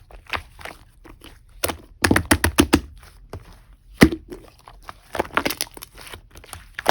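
Slime being squeezed and pressed by hand, making irregular crackling pops and clicks. A dense run of them comes about two seconds in, a single sharp snap around four seconds, and another cluster after five seconds.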